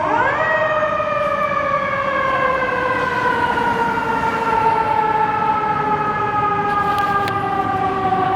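Fire engine siren: a quick rise in pitch at the start, then a long, slow fall in pitch, over the rumble of the truck.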